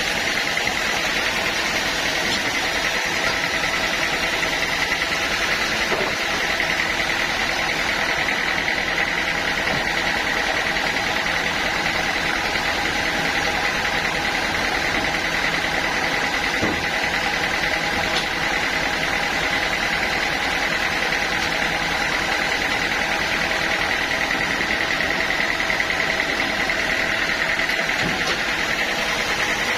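Portable sawmill running steadily: a continuous machine drone with a steady high whine, unbroken throughout.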